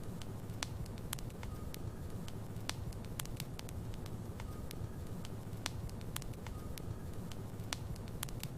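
Logs burning in a fireplace: a steady low rumble of flame with irregular sharp crackles and pops, and a faint short whistle every couple of seconds.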